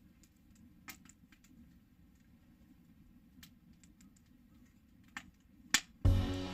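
Faint scattered sharp clicks over a low steady rumble, about five in all; background music with strings comes in loudly near the end.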